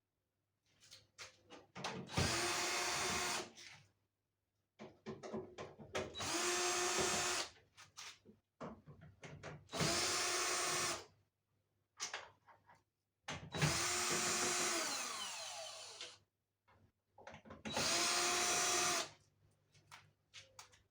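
Electric drill-driver running in five short bursts of about two seconds each, with small clicks and knocks in between, as in driving or removing screws one after another. The fourth burst is the longest and trails off at its end.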